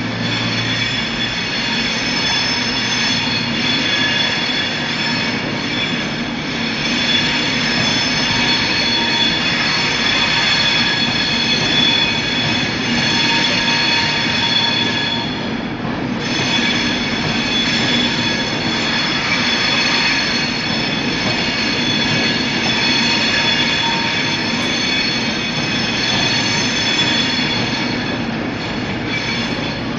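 Passenger trains moving slowly through a station platform, with a steady high-pitched squeal made of several held tones over a low rumble. The squeal dips briefly about halfway through and again near the end.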